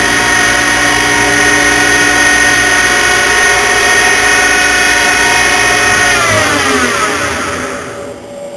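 Upgrade Technologie GT-27 CNC lathe running with a steady multi-tone whine from its spindle drive. About six seconds in, the pitch falls and the sound fades as the spindle winds down, leaving a quieter steady hum.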